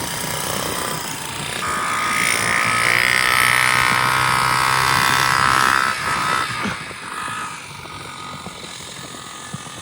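Pit bike's small single-cylinder engine idling, then revving up high for several seconds before dropping away.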